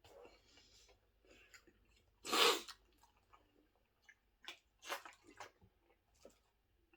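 A person chewing a last mouthful of sandwich with scattered wet mouth noises, and a louder breathy burst about two and a half seconds in.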